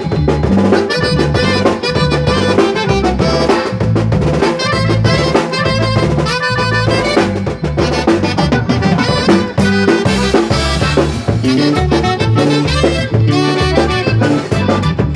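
Band music: an instrumental passage with a melody line over a steady, repeating bass and drum beat, with no singing.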